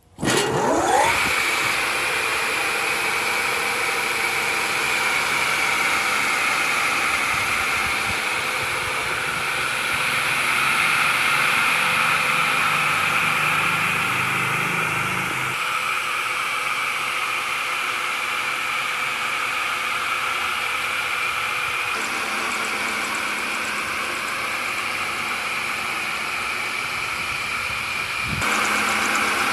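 The restored 3-in-1 woodworking machine's electric motor and cutter head starting up with a rising whine in the first second, then running at a steady high whine. The sound shifts abruptly a few times.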